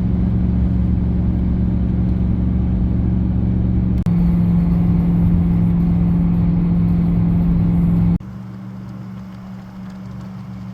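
Steady drone of a vehicle driving at speed: engine and road noise with a constant low hum. It changes abruptly about four and eight seconds in, and the last part is clearly quieter.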